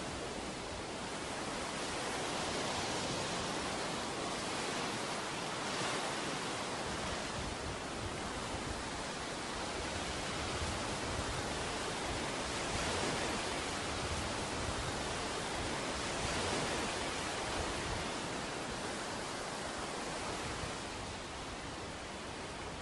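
Ocean surf washing on a beach: a steady rush of breaking waves that swells and eases every few seconds.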